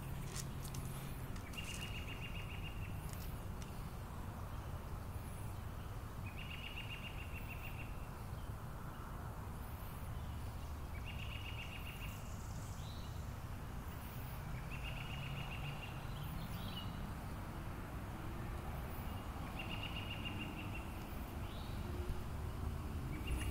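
A bird's high trill, about a second long, repeated five times at regular intervals of four to five seconds over a steady low rumble.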